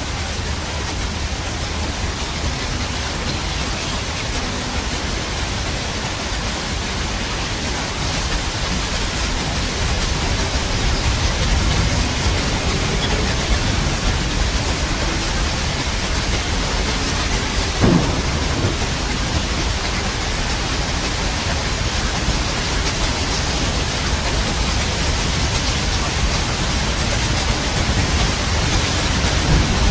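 Steady heavy rain with thunder. A sharp crack of thunder comes about two-thirds of the way through, and a low rumble swells near the end.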